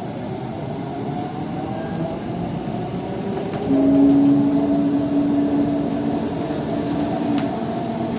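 Metro train running, heard from inside the carriage: a steady rumble. About halfway in, a steady hum joins it and the noise grows a little louder; the hum's lower tone stops near the end.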